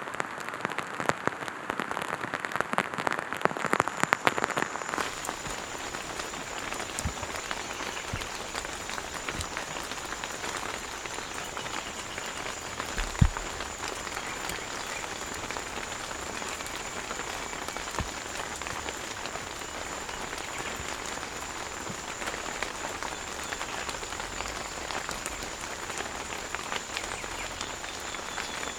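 Rain falling in a forest at night: heavy, dense pattering for the first few seconds, then steady rain with a continuous high-pitched night chorus running through it. A single low thump comes about 13 seconds in.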